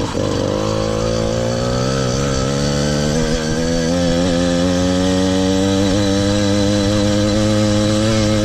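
Small engine of a motorized bicycle running under load as the bike rides along, its pitch climbing gradually over the first few seconds, then holding steady.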